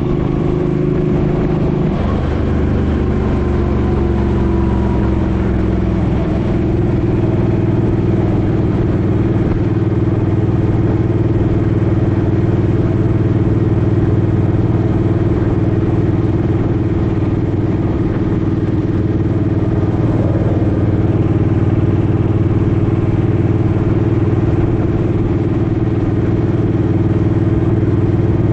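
Suzuki Boulevard M50's V-twin engine running under way. The engine note shifts in the first few seconds, then holds steady at a cruising pace.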